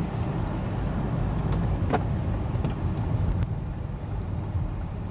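Steady low road and engine rumble heard inside a moving car, with a few faint ticks in the middle.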